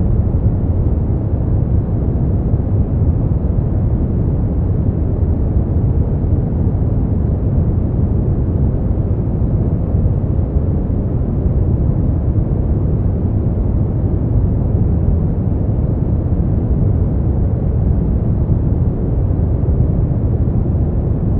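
Brown noise: a steady, deep rumbling hiss, strongest in the bass and falling away toward the treble, with no change or events.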